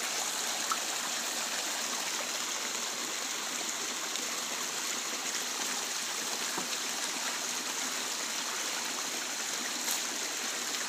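Creek water running steadily over sticks and rocks, a continuous rushing trickle, flowing again where the debris blocking it has been pulled out.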